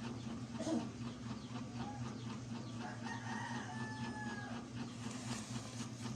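A rooster crowing once, a long held call starting about three seconds in, over a steady low hum.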